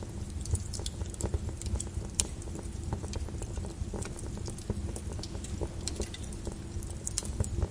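Lava flow crackling and popping: irregular sharp snaps and clicks over a steady low rumble.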